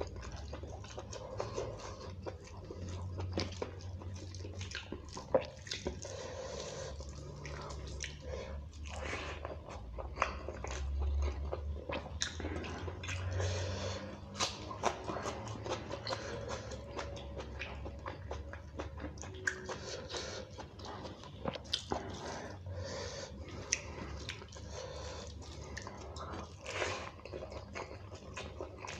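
Close-up chewing and wet mouth sounds of a person eating curry and rice by hand, with crisp crunching bites of raw onion. Many short clicks and smacks throughout.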